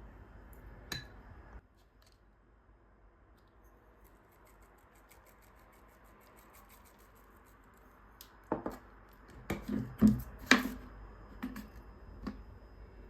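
A few sharp clicks and knocks of kitchen food preparation, bunched together in the last few seconds, after a low background hum cuts off about a second and a half in.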